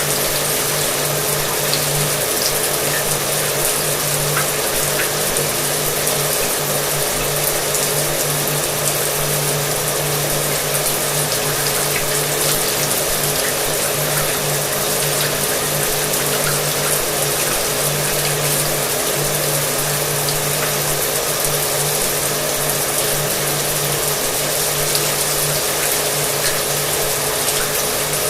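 Shower water running steadily, with a hair dryer running behind it. The water gives an even hiss, and the dryer's motor adds a steady low hum underneath.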